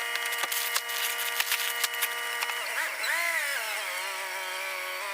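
Small engine running steadily with a whine, its pitch dipping and rising again about three seconds in, over many sharp clicks and knocks in the first two seconds.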